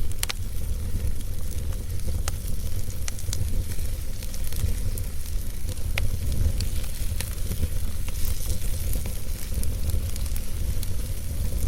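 Wood fire in a fireplace burning with a steady low rumble and hiss, broken by sharp crackles and pops of the burning logs, the loudest about a quarter second in and again about six seconds in.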